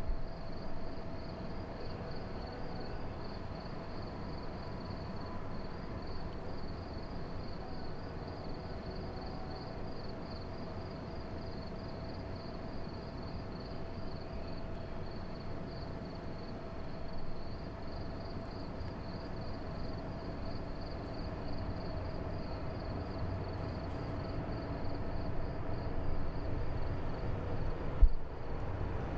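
Outdoor night ambience: a steady low rumble with a continuous, evenly pulsing high chirp of insects, and one sharp knock near the end.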